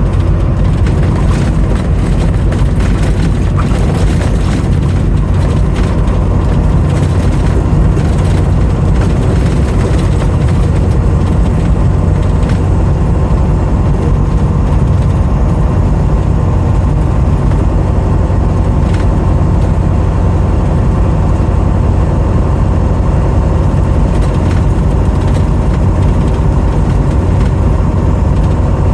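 Steady low rumble of a motor vehicle's engine that stays at an even level throughout, with no clear revving.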